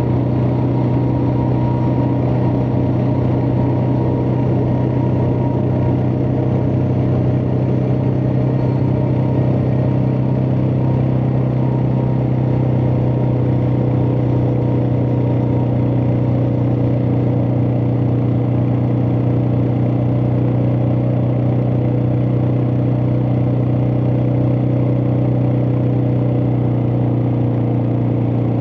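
Suzuki DR650's single-cylinder four-stroke engine running at a steady speed under way, one constant note that holds its pitch throughout.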